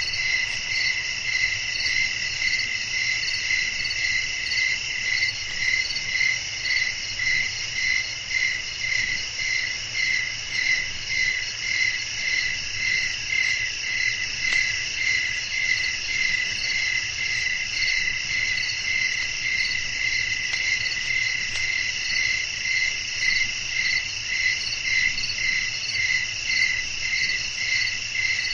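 Night-time chorus of crickets: several steady, continuous high trills layered together, with one even, pulsing chirp repeating about once or twice a second.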